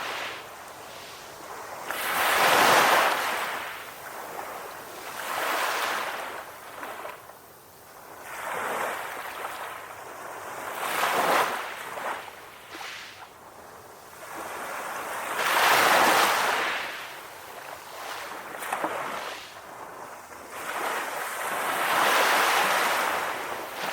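Ocean waves washing onto a shore, a rushing hiss that swells and falls with each wave, several surges a few seconds apart.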